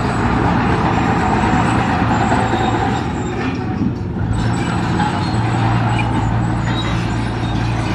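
Heavy diesel construction machine running steadily, a deep engine drone with a short dip in level about halfway through.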